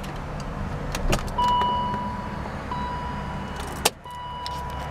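Ignition of a 2001 BMW 740i being switched off: a click, then a steady high-pitched electronic warning tone from the dashboard that breaks off briefly twice, a sharp click near the end, and keys jangling.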